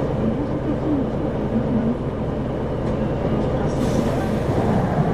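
Isuzu 2RG-LV290N4 city bus running, heard from inside the cabin: a steady rumble of its four-cylinder turbo-diesel and the road. There is a brief hiss a little under four seconds in, and a short knock at the very end.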